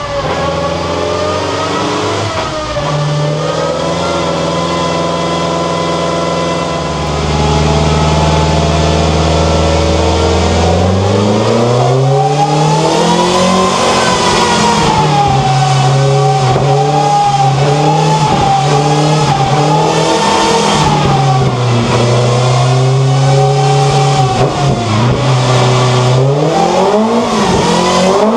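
BMW S14B25 four-cylinder engine with a carbon airbox in an E30 rally car, running loud under load. It holds steady speeds for several seconds at a time, steps up about seven seconds in, climbs again a few seconds later, then holds with a brief dip before rising near the end.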